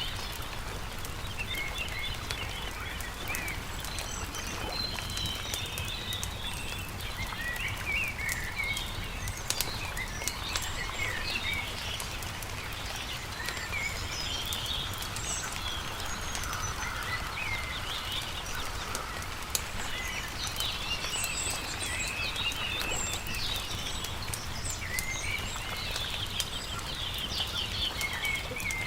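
Small birds chirping and trilling continuously, layered with the scattered pops and crackles of a wood campfire over a steady low rumble.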